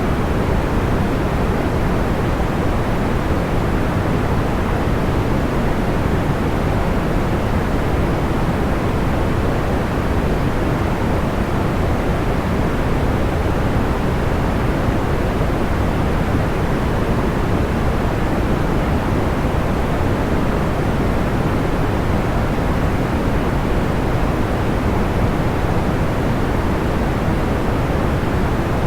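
Steady, soft, deep-toned white noise (a sleep-noise hiss), even and unchanging, with no separate crackles or pops standing out.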